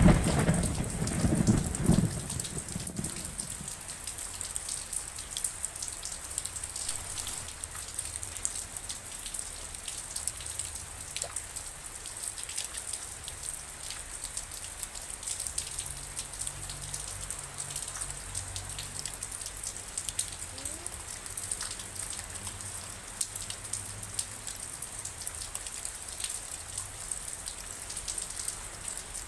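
Steady rainfall with many individual drops pattering and ticking. A roll of thunder dies away in the first two or three seconds.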